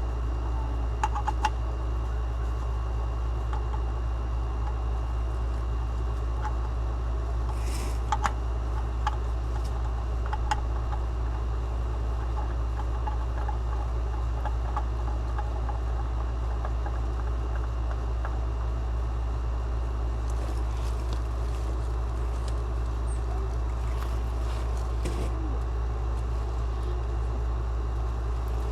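Vehicle engine running at a steady idle, with a few light clicks and taps scattered over it.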